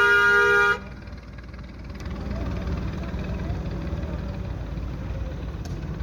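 A vehicle horn blaring in a steady two-tone chord, cutting off suddenly under a second in, followed by the steady low rumble of a tractor engine pulling a loaded trolley.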